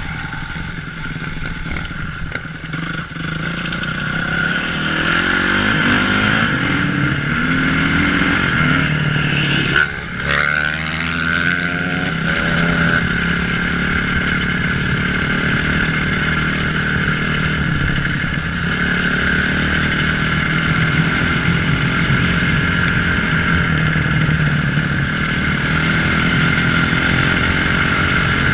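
Motocross bike engine running under throttle, its pitch climbing as it revs between about four and ten seconds in. A sudden sharp sound about ten seconds in is followed by a brief dip in level, and the engine then runs on steadily.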